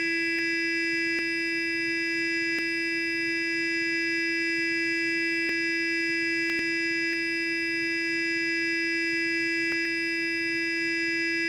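Sonic electric toothbrush running, a steady, unbroken high buzz.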